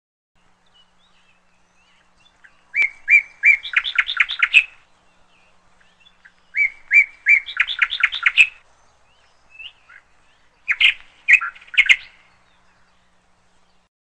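A songbird singing three phrases of quick repeated chirps. The first two each start with a few spaced notes that speed up into a rapid run about two seconds long; the third is shorter.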